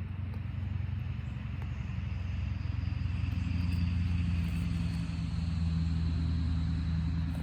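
A motor vehicle engine running, a steady low rumble that grows louder about halfway through, with a faint high whine that rises slowly.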